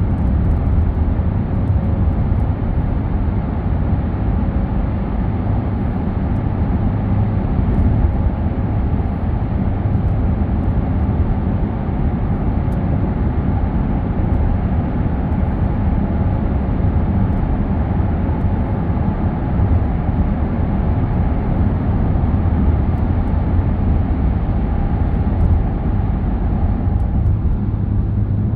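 Steady driving noise of a car on the road: a low drone of engine and tyres with road hiss. A faint mid-pitched hum in the noise fades out near the end.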